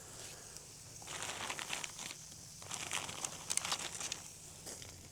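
Cooking fire crackling under pork chops on a grill, a dense run of small irregular crackles and pops in two stretches, from about a second in until near the end, as the flames pick back up.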